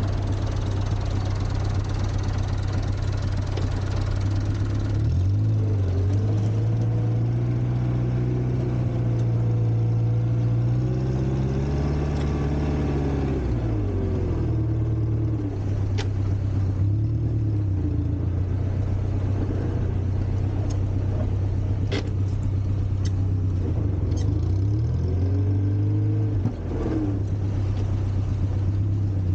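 Four-cylinder Volvo petrol engine of a 1960s Kalmar baggage tractor running steadily, its speed rising and falling twice as it is revved while working. A few short clicks are heard along the way.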